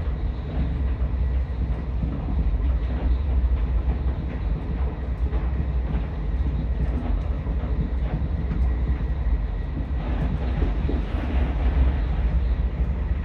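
Steady low rumble of a car on the move: road and engine noise heard from the moving vehicle, with no sudden events.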